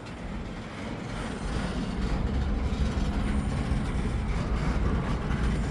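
Freight train rolling slowly past as it slows down: a low, continuous rumble that grows a little louder, with a steady hum coming in about two seconds in.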